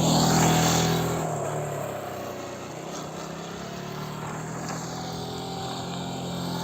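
Motorcycle engine running. It is loudest in the first second or so, then eases off to steadier, quieter running.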